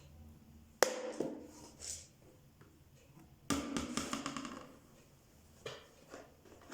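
Hard objects knocking and clattering: a sharp knock about a second in with a short ring after it, a longer rattling clatter a little past the middle, and a lighter knock near the end.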